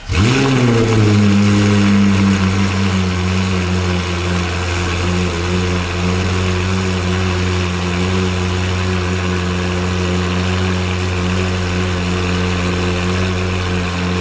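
Ferrari 458 Italia's 4.5-litre V8 through an iPE F1 exhaust system, starting up: the revs flare just after the start, then settle into a steady idle.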